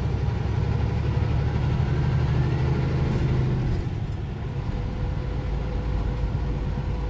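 Inside a semi-truck's cab while driving: steady low engine and road rumble.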